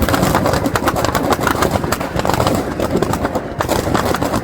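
Firecrackers bursting in a rapid, unbroken string of sharp cracks and pops inside a burning Ravana effigy.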